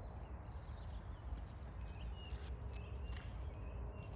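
Outdoor ambience: a steady low rumble with a small bird singing a quick run of repeated high notes about a second in, and a brief sharp rustle or click a little after.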